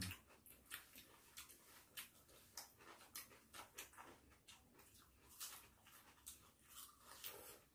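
Faint chewing and eating noises: a scattered run of soft clicks and mouth smacks as food is eaten with chopsticks and fingers.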